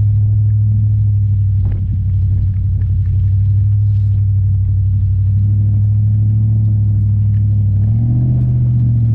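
Pickup truck engine running with a steady low drone, its pitch stepping up a little about eight seconds in.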